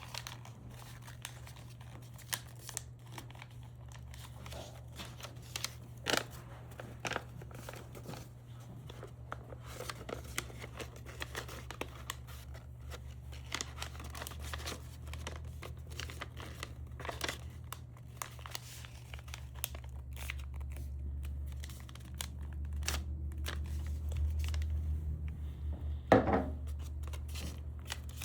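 Scattered small clicks and crinkling handling noises over a steady low hum, with one louder click near the end.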